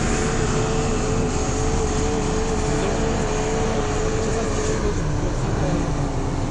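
Off-road vehicle engine running steadily, with a steady whine over it that fades out about five seconds in.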